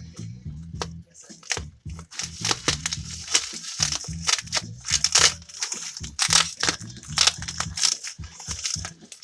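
Parcel packaging being pulled apart and crumpled by hand: irregular crackling and crinkling with some tearing.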